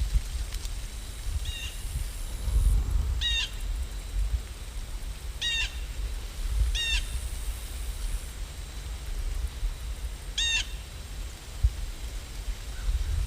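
A bird calling five times, each a short burst of pitched notes, over a steady low rumble.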